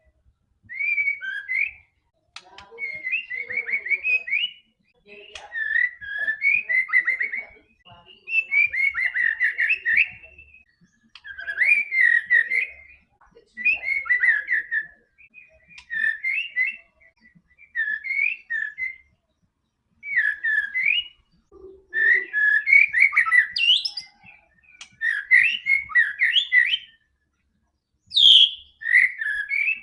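White-rumped shama (murai batu) singing vigorously: a long run of rich, varied whistled phrases, each a second or two long, separated by short pauses.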